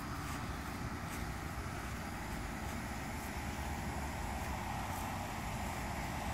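1971 Chevrolet Chevelle SS's V8 engine idling with a steady low rumble.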